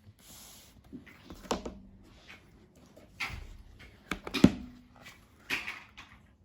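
Household objects being handled and set down: a string of sharp knocks and clacks, the two loudest about a second and a half in and near four and a half seconds ringing briefly, like hard dishes or containers put on a surface.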